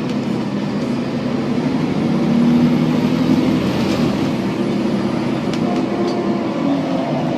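Volvo B7TL bus with a 7.3-litre diesel engine running on the road, heard from on board: steady engine and drivetrain noise with a thin whine that climbs in pitch and then falls away, swelling a little in the middle. It is the kind of odd differential sound that the uploader notes from this bus.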